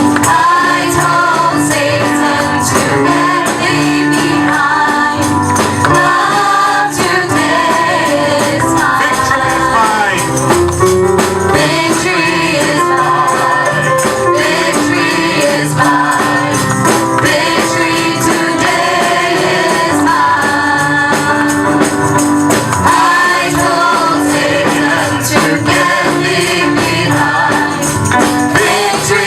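Gospel praise song sung by a choir, with a tambourine.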